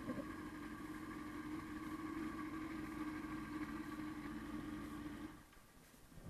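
Motorcycle engine running steadily, then falling silent about five seconds in, with a short thump right at the end.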